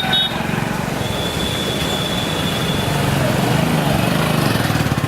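Street traffic noise with voices in the background, and a thin high steady tone for about two seconds about a second in.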